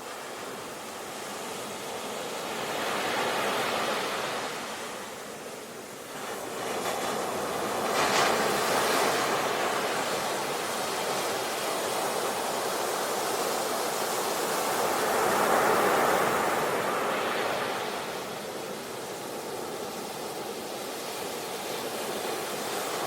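Sea waves breaking, a rushing wash of water that swells and eases in slow surges, loudest about eight and sixteen seconds in.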